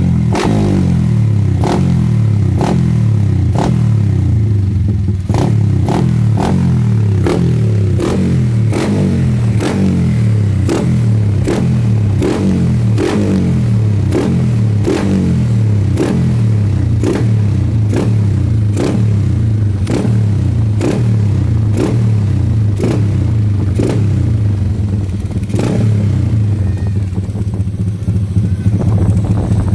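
Drag bike engine with an open pipe idling loudly and steadily, with a sharp crack about one and a half times a second that stops near the end.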